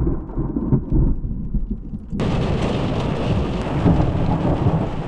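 Thunder rumbling; about two seconds in, the sound cuts abruptly to steady rain hiss with low thunder rumbling beneath it.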